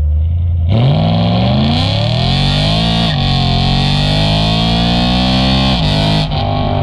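BMW E92 M3's V8 engine at full throttle, revving up through a gear, upshifting about three seconds in, pulling up through the next gear, then lifting off near the end. This is the first hard pull on a fresh E85 tune.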